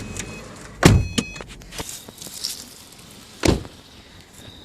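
Two dull thumps about two and a half seconds apart, with a few small clicks and rustles between them.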